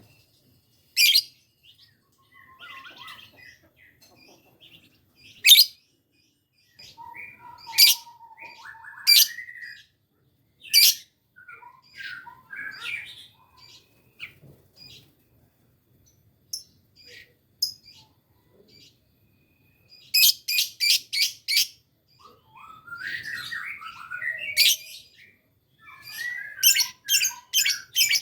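Lovebird calling: single sharp, shrill chirps with soft chattering between, and two quick runs of about five piercing notes, one past the middle and one near the end. These are the broken bursts of a bird still learning its long ngekek song.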